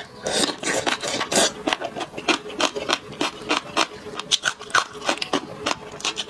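Close-miked eating: a wet slurp as a mouthful of crunchy green vegetables and enoki mushrooms goes in, then rapid crunchy chewing, about three or four crunches a second.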